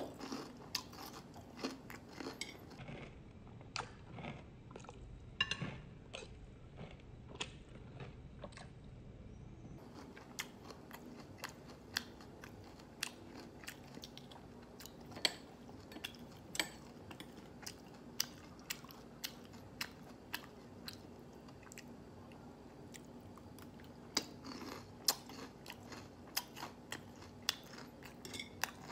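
Close-miked chewing of crispy fried pork, with sharp irregular crunches about once or twice a second.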